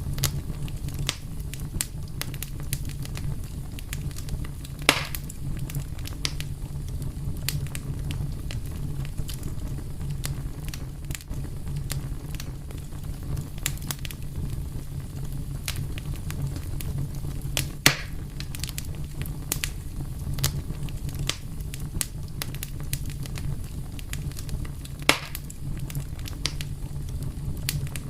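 Wood fire burning with a steady low rumble and frequent small crackles, and three louder sharp pops, about 5, 18 and 25 seconds in.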